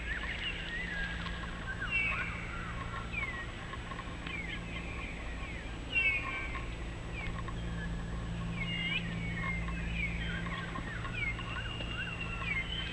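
Wild birds chirping and singing, many short rising and falling calls, over a steady low hum.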